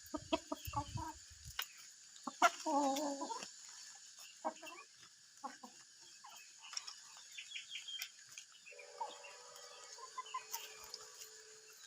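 Chickens clucking: a run of quick clucks at the start, scattered short calls through the middle, and a longer drawn-out call from about 9 seconds on.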